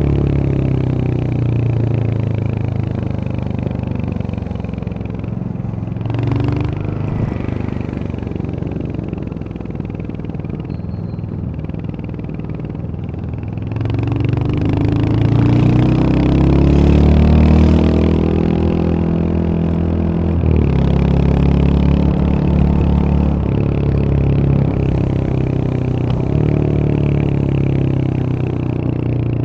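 Royal Enfield Hunter 350's single-cylinder engine on the move, its pitch falling as the bike slows over the first third. From about halfway it accelerates with a rising pitch, then a gear change comes about two-thirds through and it runs steadily after.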